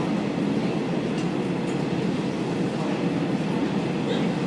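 Steady running rumble of a train heard from inside the passenger car, the 'Kazekko' KiHa 48 diesel railcar, with no distinct rail-joint clicks and no sudden event.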